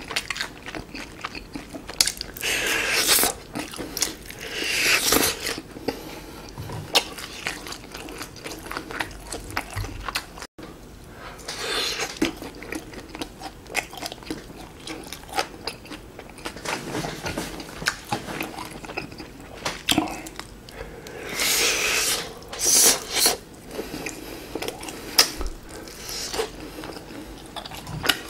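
Close-miked chewing and biting of grilled chicken skewers (dakkochi), with many short mouth clicks and a few louder bursts of about a second each.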